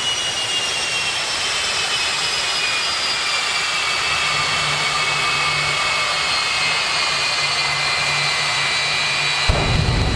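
Jet engine of a jet-powered drag racing vehicle running with a loud rushing noise and a high turbine whine that slowly falls in pitch. A low rumble comes in near the end.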